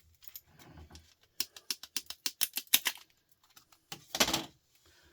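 Sharp clicks and snaps as a large IC chip is pried off a circuit board, coming in a quick run of about a dozen hits. About four seconds in there is one short scraping burst.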